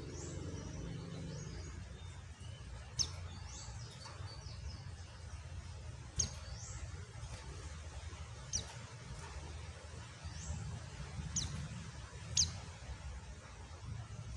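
Pleci (white-eye) giving about five short, sharp, high chirps a couple of seconds apart, with softer downslurred calls between them, over a steady hiss.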